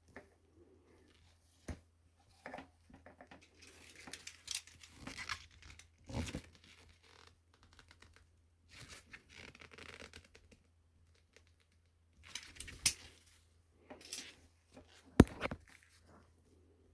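Intermittent handling noises of hands and small tools at work: scraping and rustling with scattered sharp clicks, the loudest click about fifteen seconds in.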